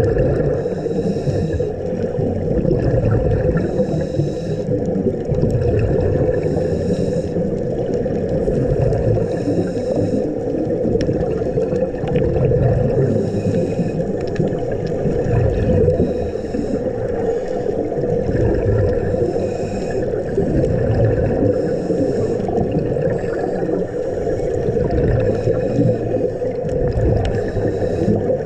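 Underwater rumble picked up by a dive camera, with a scuba diver's regulator breathing: a hiss with each breath every two to three seconds, and exhaled bubbles gurgling.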